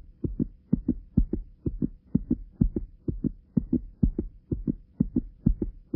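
Heartbeat sound effect: deep paired lub-dub thumps, about two beats a second, over a faint steady hum.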